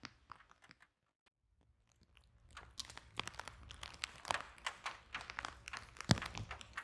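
Wood fire crackling in a fireplace: sharp snaps and pops from the burning logs. The sound drops almost out for about a second, then the crackling comes back thick and fast, with one loud pop near the end.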